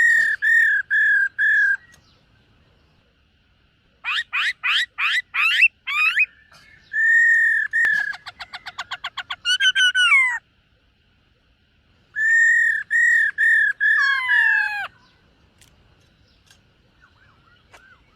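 Black-throated laughingthrush singing loud, clear whistled phrases: a run of five repeated notes, a burst of fast rising sweeps, a long note, a rapid trill and falling slurs, then more repeated notes, with short pauses between phrases.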